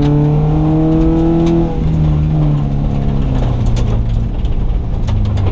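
Subaru rally car's engine under hard acceleration, revs climbing and then dropping sharply at a gear change a little under two seconds in, then pulling on.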